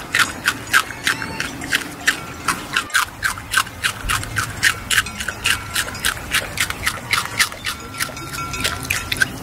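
Rabbits chewing and crunching fresh greens and carrot: a quick, irregular run of crisp clicking bites, about four a second.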